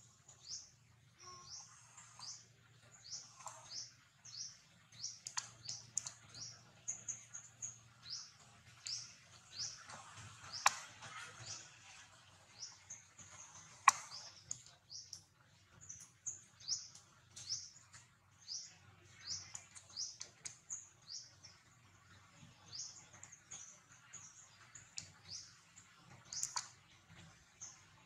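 A small bird chirping over and over, short high chirps about one to two a second, with two sharp clicks near the middle.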